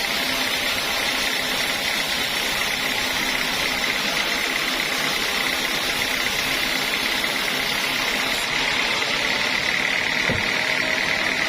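Sawmill machinery running steadily with a constant mechanical hum and no break in level.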